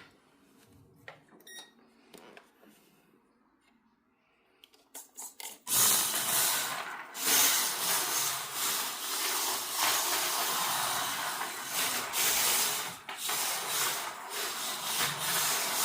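WLtoys K969 RC drift car's drift tyres sliding across the floor, a loud steady hiss that swells and dips as the car drifts. It starts about six seconds in, after a few faint clicks.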